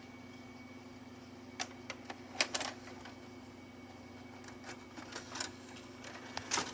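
Scattered hard plastic clicks and clacks from a VHS cassette being handled and loaded into a VCR, in small groups about a second and a half in, around the middle, and near the end, over a steady low electrical hum.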